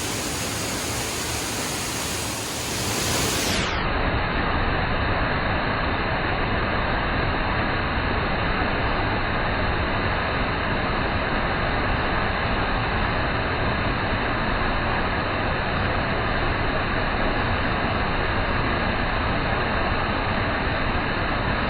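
Small waterfall's falling water roaring as a loud, steady rush, close by. About three and a half seconds in the sound turns duller and a little louder, then stays even.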